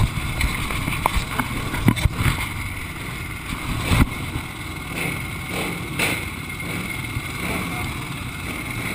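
Dirt-track motorcycle engine idling steadily, with a couple of sharp knocks about two and four seconds in.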